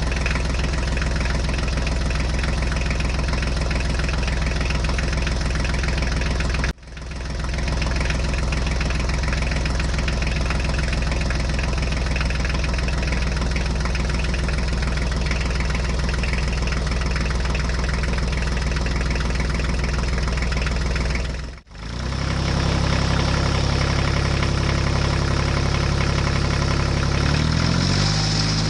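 Diesel tractor engine running steadily, broken by two sudden brief dropouts. After the second dropout the engine note is lower and steadier, and it changes pitch near the end.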